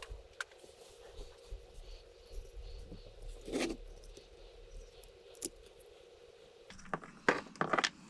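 Small parts and tools being handled on a workbench: scattered faint clicks and taps over a low steady hum, a brief rustle midway, and a quick run of louder clicks near the end.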